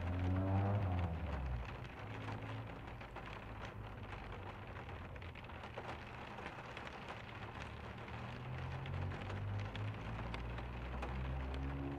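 Rain falling on the truck, heard from inside the cab as a steady hiss dotted with small drop ticks. A low humming tone rises up in the first second or so, which is the loudest part, and returns near the end.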